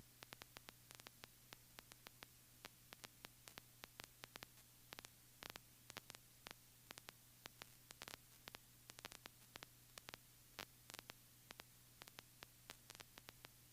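Near silence on an audio line: faint, irregular static ticks, a few a second, over a low steady hum.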